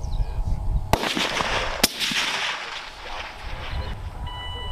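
Two rifle shots about a second apart, each followed by a long rolling echo across the range. Short electronic beeps sound near the end.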